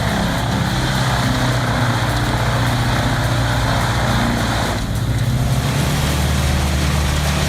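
A large engine running steadily, with a steady high whine above it; both dip briefly about five seconds in.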